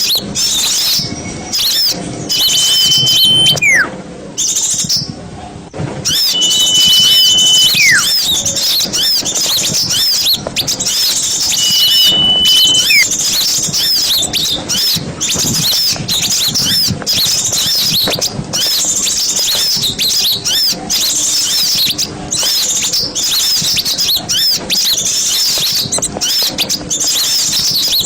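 Small songbirds chattering: a dense stream of rapid high chirps. In the first half, three long steady whistles each end in a falling glide.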